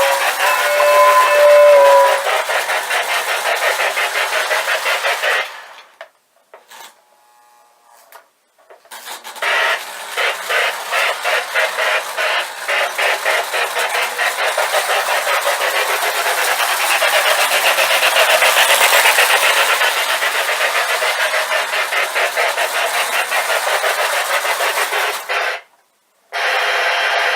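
Lionel Southern 2-8-2 Mikado O-gauge model steam locomotive running, with a two-tone steam whistle ending about two seconds in, then a steady rhythmic chuffing. The sound drops out for about three seconds around six seconds in and again briefly near the end.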